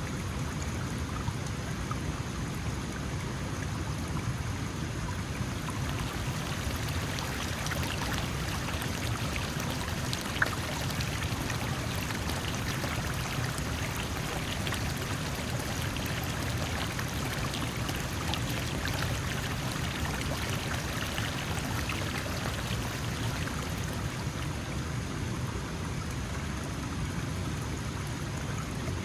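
Small mountain stream flowing over stones, a steady babble with fine splashing and trickling throughout. A single faint click about ten seconds in.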